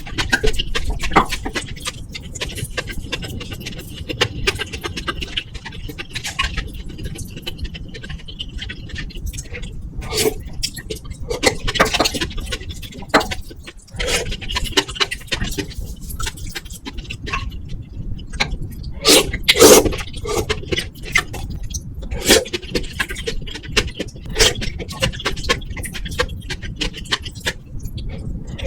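Close-miked eating sounds: chewing and many short clicks and taps, with the loudest pair about two-thirds of the way through, over a steady low rumble of microphone noise from a faulty mic.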